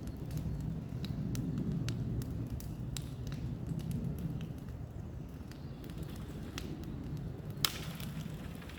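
Bonfire burning, a steady low rumble with scattered crackles and one sharper pop near the end.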